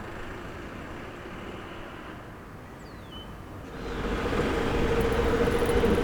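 Quiet background noise, then from about four seconds in the sound of a vehicle engine swells up with a steady hum, getting louder.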